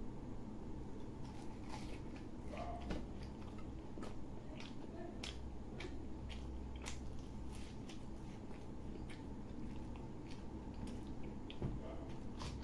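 Close-miked chewing of curry-soaked fried bread and potato, with many wet mouth clicks and smacks, over a steady low hum.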